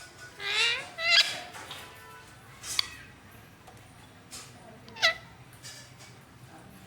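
Indian ringneck parrot giving four short, sharp calls that drop in pitch. The first is longer and rises before it falls, and the last comes about five seconds in.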